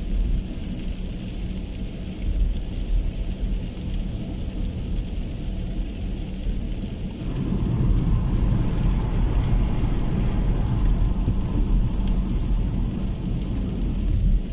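Heavy rain falling, with a deep rumble under it that grows louder about halfway through.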